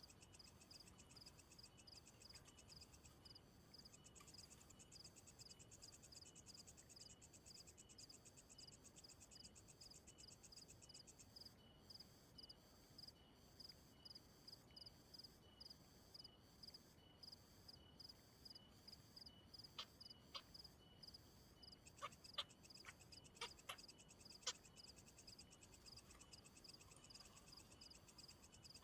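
Faint chorus of calling insects and frogs: steady, evenly repeated pulsing calls, with a fast high trill joining in early and again near the end. A few sharp clicks come in the last third.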